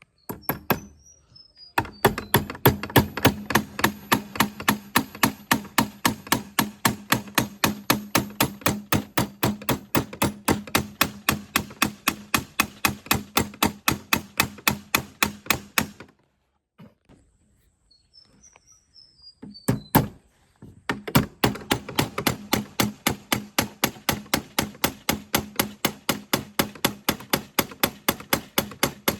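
Rapid, even knocking at about three strikes a second over a low steady hum, in two long runs with a pause of a few seconds between them.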